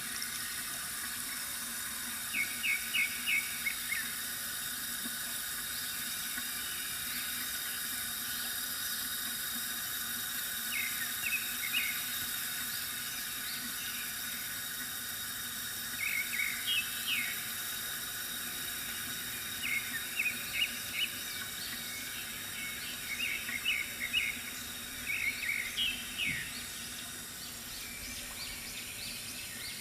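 Steady trickle of water from a bamboo water fountain, with small birds chirping in short quick series every few seconds, several times throughout.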